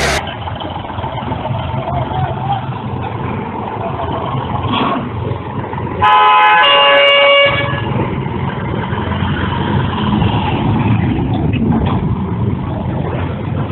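A vehicle horn blasts once, a steady sustained honk of about a second and a half, over continuous engine and road rumble.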